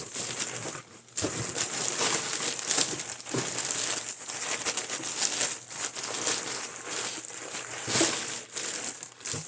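Loose metal nuts and bolts clinking and rattling together as a big bag of them is handled and shaken, many small metal-on-metal clicks.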